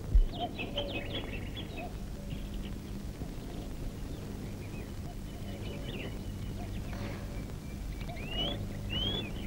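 Birds chirping in short, repeated curved calls over a steady low hum, with a single thump just after the start.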